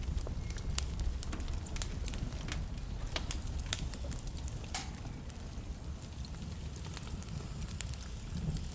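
Wood fire burning in a fireplace: a steady low rumble of flames with irregular sharp crackles and pops from the burning logs, one louder pop a little before the middle.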